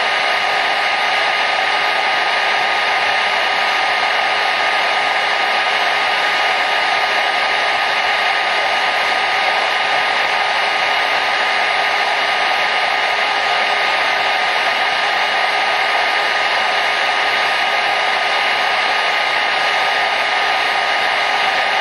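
Hair dryer running steadily: an even rushing hiss of blown air with a faint steady motor whine in it.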